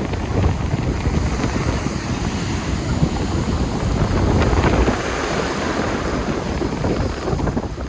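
Heavy wind buffeting the microphone over the noise of big waves breaking on the shore, swelling louder around the middle.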